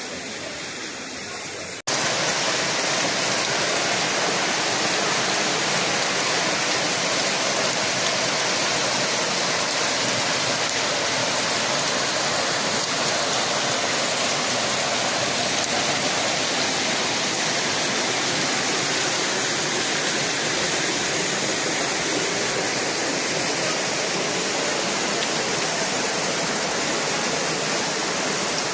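Waterfall's falling water: a loud, steady rush of noise that comes in abruptly after a quieter opening of about two seconds.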